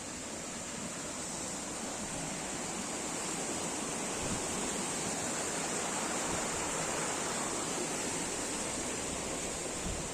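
Steady rush of flowing water, growing a little louder over the first few seconds.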